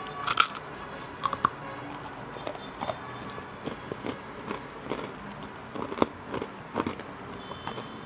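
Close-up eating sounds: crisp, irregular crunches and crackles of chicharon (fried pork rinds) being bitten and chewed.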